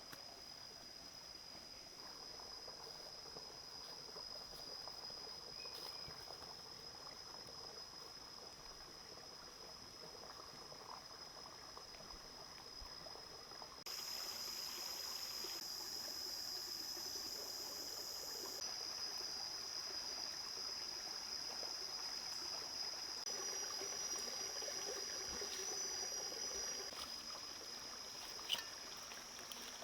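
Steady trickling, water-like noise with a constant high-pitched tone over it. A brighter hiss comes in about halfway and lasts a few seconds, and there is one sharp click near the end.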